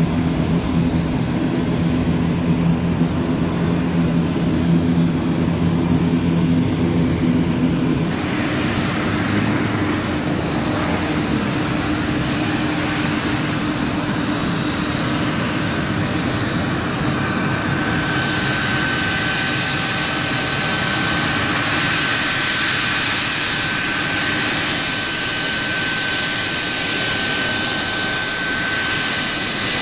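Jet airliner engines running: a steady low hum at first, then after a sudden change a broad rushing jet noise. High-pitched turbine whines join it about two-thirds of the way through and hold steady.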